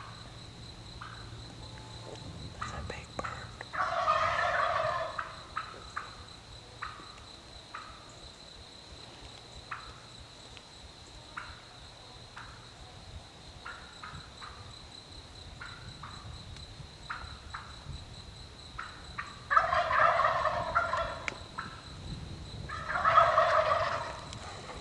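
Wild turkey gobbling: three loud gobbles, one about four seconds in and two close together near the end, with fainter short calls between.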